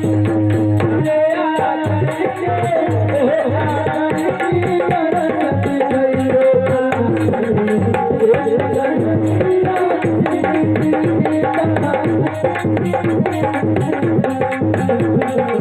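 Devotional music: tabla playing a steady, dense rhythm under a wavering melody.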